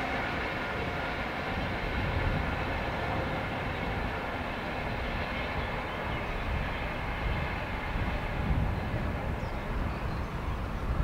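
Distant locomotive-hauled passenger train rolling past on the line across the river: a steady rumble of wheels on rail with a faint hum that fades as the train draws away. A low rumble grows toward the end.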